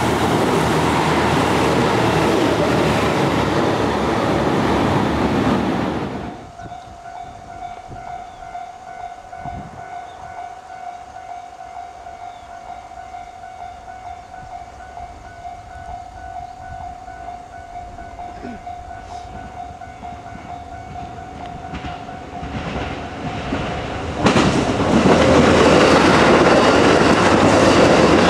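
KiHa 72 series 'Yufuin no Mori' diesel railcar train passing at speed, loud, cutting off about six seconds in. A quieter stretch follows with a steady high tone. The train then comes closer and passes close by, loud again near the end.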